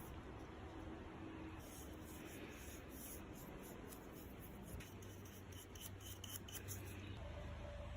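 Faint hand rubbing and scraping on the rusty steel wrench, with a run of light clicks a little past halfway.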